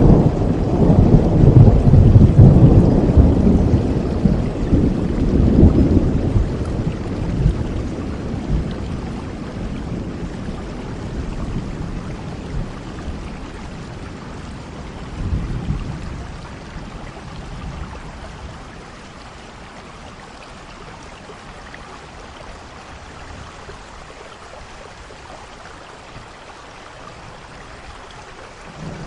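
Rolling thunder over steady rain: a long low rumble, loudest in the first few seconds, dies away gradually, with a brief low boom about fifteen seconds in, leaving only the even hiss of rain for the last ten seconds.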